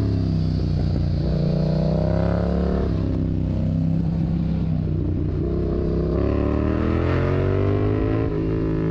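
Yamaha MT-07 parallel-twin motorcycle engine through an aftermarket Mivv exhaust, under way. The pitch climbs under throttle, drops sharply at a gear change about three seconds in, then rises and falls again with the throttle.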